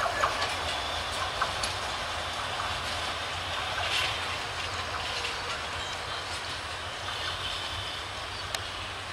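Passenger coaches of an express train rolling away on the rails: a steady rumble of wheels on track, with a few sharp clicks as the wheels cross rail joints. It slowly fades as the train recedes.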